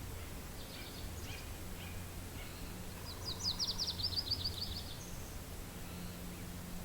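A songbird sings one rapid, high trill of about a dozen notes about three seconds in, after a few fainter chirps, over a steady low rumble of wind.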